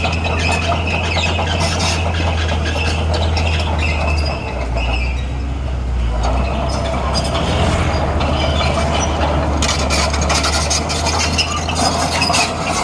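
Bulldozer's diesel engine running under load, its note dropping about four seconds in and picking up again a couple of seconds later. High-pitched squealing is heard over the first few seconds, and metal clanking and rattling are heard in the last few.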